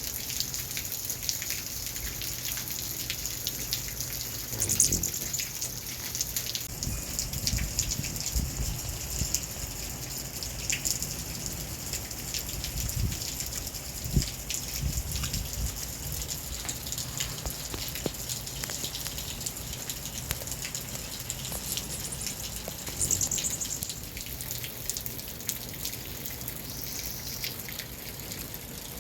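Rain falling and pattering, a steady hiss of many small drop impacts and drips. Two brief high-pitched sounds stand out, about five seconds in and again near 23 seconds.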